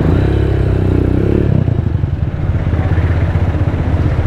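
Rusi Diablo motorcycle's engine running at low speed through its custom Orion exhaust muffler, a deep, steady rumble.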